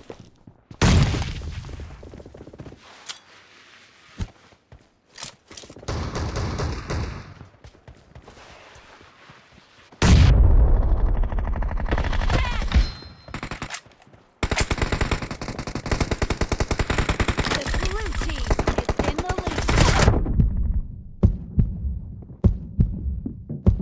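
Automatic gunfire in a shooter video game: a few scattered shots, then two long sustained bursts of rapid fire in the second half, each stopping abruptly, followed by sparser single shots near the end.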